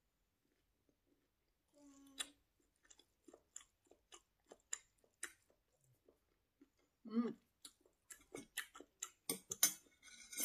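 Close-miked chewing and wet mouth clicks and smacks of someone eating a ramen meal. It starts after about two seconds and grows busier toward the end, with a brief low hum-like sound in between.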